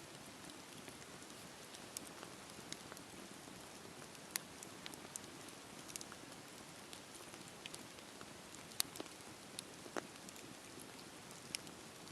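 Campfire burning with a steady low hiss and irregular sharp crackles and pops of burning wood, the loudest about 4 and 9 seconds in.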